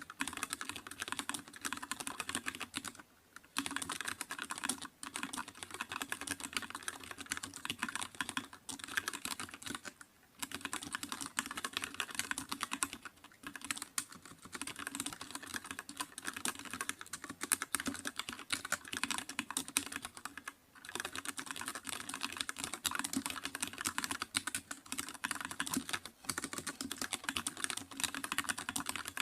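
Computer keyboard being typed on fast and continuously, a dense run of key clicks broken by a few brief pauses.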